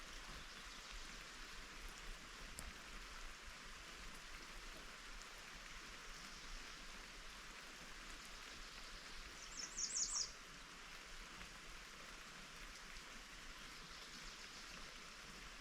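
Steady rain falling, an even hiss throughout. About ten seconds in, a short quick run of high chirps is briefly the loudest sound.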